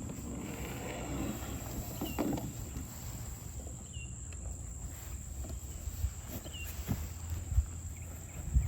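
A steady, high-pitched insect trill, with a short chirp about every two seconds and a few low thumps and knocks from the kayak being handled at the water's edge.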